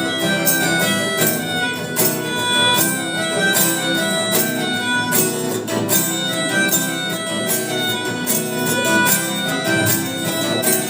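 Rock band playing an instrumental passage with no vocals, sustained instrument notes over a steady beat.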